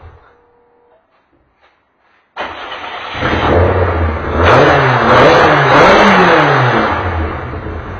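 A touring race car engine fades out, near silence follows for about two seconds, then an engine bursts into sound and is revved up and down several times before settling back to a lumpy idle.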